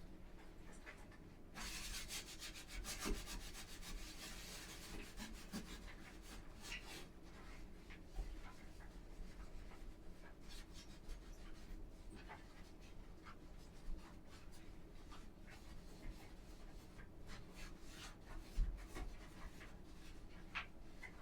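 Hand scrubbing of bathroom surfaces: a quick run of rubbing strokes starts about a second and a half in, then slower, scattered strokes follow.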